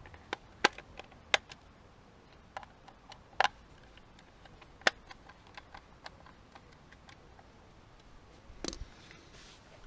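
Irregular sharp clicks and light knocks of hand tools and door-lock parts being handled and fitted, the loudest about a second, a second and a half, three and a half and five seconds in, with a brief rustling scrape near the end.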